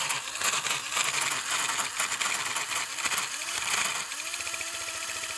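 Hart pump running noisily, its motor rattling and grinding with dense fine clicks from a loose, bad bearing. About four seconds in the sound settles into a steadier, smoother hum.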